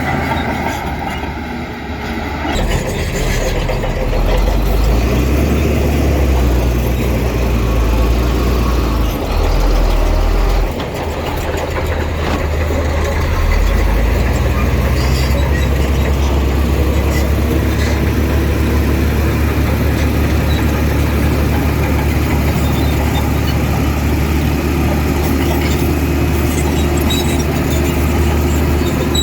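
Heavy diesel engine of earthmoving machinery working under load. The engine note rises a few seconds in, falls away about eleven seconds in, and picks up again around fourteen seconds, then runs steadily.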